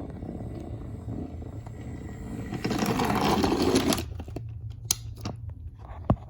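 A small motor whirring steadily. It gets louder and busier for about a second midway through, then gives way to a few sharp clicks.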